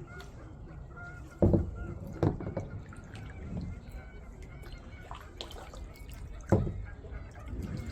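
Kayak paddle dipping and dripping in lake water, with three sharp knocks, about a second and a half in, just after two seconds and near six and a half seconds, from the paddle striking the kayak.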